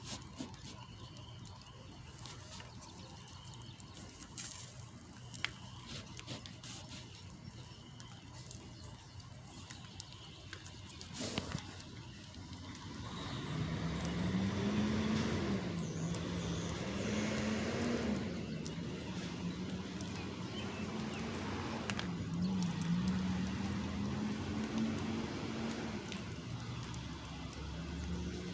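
Truck engine running, growing loud about halfway through, its pitch rising and falling as it is revved.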